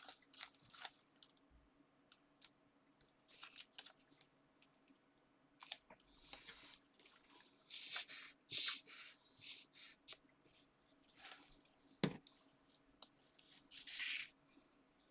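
Paper and card being handled close by: irregular short rustles and scrapes as pieces are positioned and pressed down, with a sharp tap about twelve seconds in.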